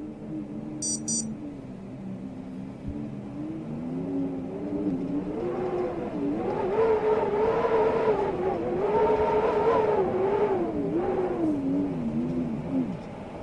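Storm wind howling: a pitched moan that wavers up and down in pitch and swells louder through the middle before easing.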